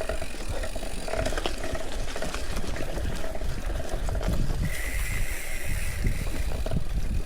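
Giant Fathom hardtail mountain bike rolling down a rough, wet trail, heard from a chest-mounted camera: a steady low rumble of wind and bumps, with rattles and clicks from the bike over the ground.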